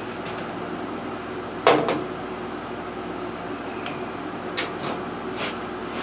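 Carburetor parts and tools being handled on a workbench: one sharp clack a little under two seconds in, then a few lighter clicks. A steady hum runs underneath.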